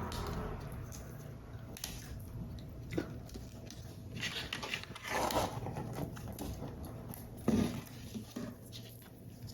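Paper and card being handled during paper-model assembly: rustling and scraping swishes with scattered light clicks, and one short knock about seven and a half seconds in.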